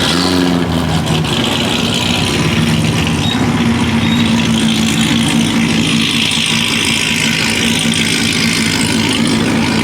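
A car engine running steadily at an even low pitch, with a brief shift in pitch right at the start.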